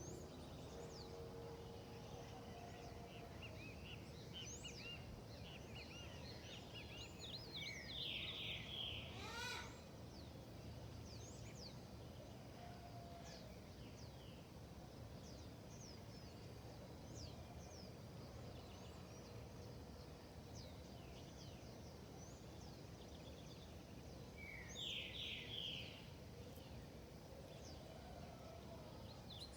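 Several wild birds chirping and singing over a steady low background hiss of outdoor ambience. A louder bird phrase comes twice, about 8 seconds in and again about 25 seconds in, with a quick rising whistle just after the first.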